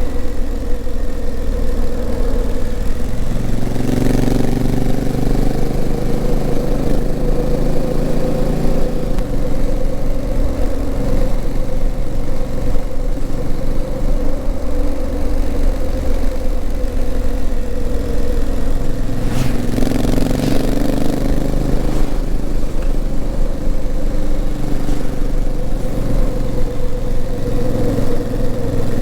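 Honda CRF1000L Africa Twin's 998 cc parallel-twin engine running steadily on the move. Its note changes in steps about four seconds in, again near nine seconds and around twenty seconds.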